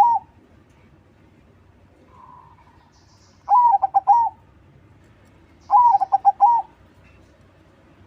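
Perkutut crossing (crossbred zebra dove) singing its cooing song. Two full phrases come about three and a half and six seconds in, each a quick run of rolling coos lasting under a second. The tail of another phrase sounds at the very start, and a soft short coo falls about two seconds in.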